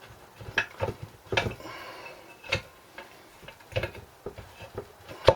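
Irregular metal clinks and knocks from handling the parts of a small Briggs & Stratton engine being dismantled, with a sharper knock near the end.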